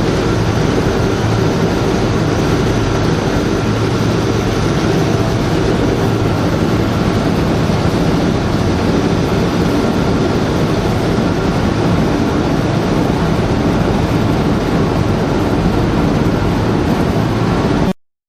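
Heavy mining machinery running: a loud, steady mechanical din with a deep hum, unchanging throughout, that cuts off suddenly near the end.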